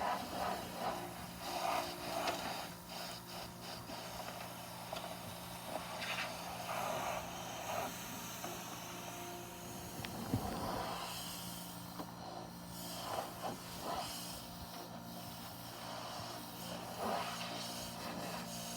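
Pressure washer running with a steady hum, under a broad hiss and irregular bursts of noise.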